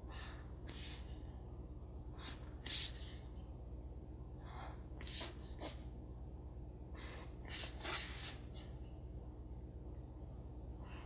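Short scratchy strokes of a drawing tool on paper, about a dozen, each under half a second, as lines are drawn in one after another. A low steady hum sits underneath.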